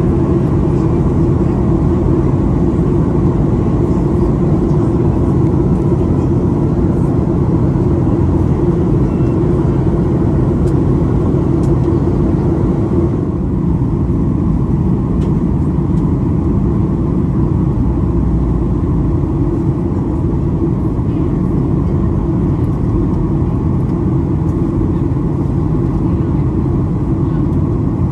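Steady roar inside the passenger cabin of a Boeing 737-800 during descent, from its CFM56 engines and the airflow over the fuselage. The noise drops a little about thirteen seconds in.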